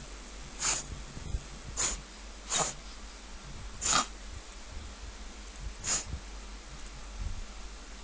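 A miniature pinscher in a reverse-sneezing episode, making five short, sharp noisy breaths through the nose, spaced unevenly a second or two apart.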